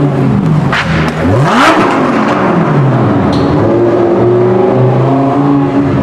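Supercar engine revving hard as the car accelerates away, its pitch rising sharply about a second and a half in to a loud peak, then falling away, with other car engines running steadily underneath.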